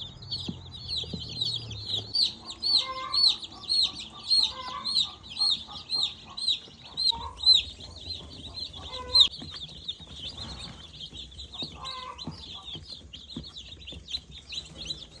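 A box of newly hatched meat chicks peeping: many high, short chirps overlapping without a break, loudest in the middle of the stretch.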